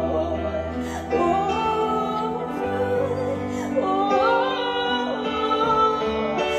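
Pop ballad music with sustained chords, and a female voice singing a wordless, gliding line over it from about a second in.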